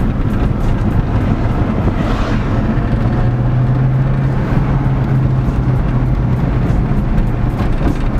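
C5 Corvette's V8 running steadily under way, heard from inside the cabin: a constant low drone, with a deeper hum that swells for a couple of seconds in the middle. A brief rush of noise comes about two seconds in.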